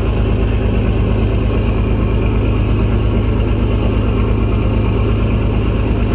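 Engine idling steadily with a fast, even low throb.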